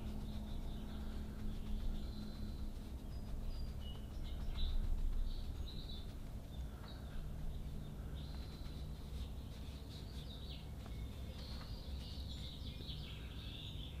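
Faint bird chirps scattered through the background, over a steady low hum.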